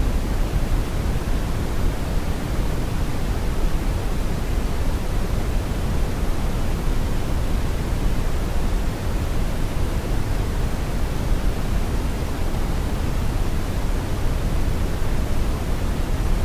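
Brown noise: a steady, deep rushing hiss with most of its weight in the low end, unchanging throughout.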